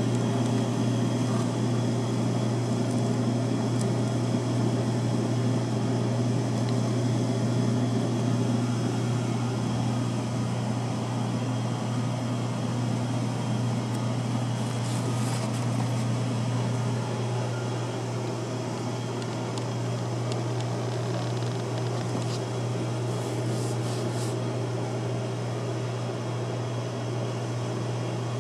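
A steady machine hum with a strong low tone and a faint hiss above it, easing slightly about two-thirds of the way through.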